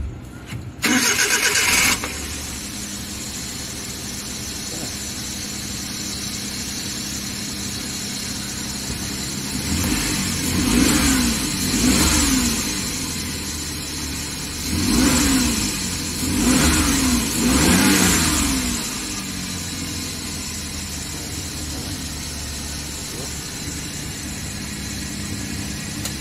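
Suzuki DA64V van's small three-cylinder engine started with a short burst of starter cranking about a second in, then idling steadily. Around the middle the throttle is blipped about five times, each rev rising and falling back to idle. The van has a hard-starting fault that the mechanic traces to a faulty idle air control valve.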